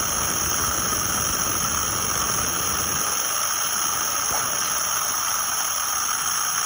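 Steady loud hiss with a few constant high-pitched tones running through it; the low rumble underneath drops away about three seconds in.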